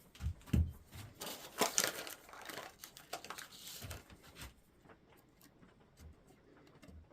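Handling noise as glue is put into dowel holes: two light knocks, then irregular crackly rustling and scraping that fades about halfway through.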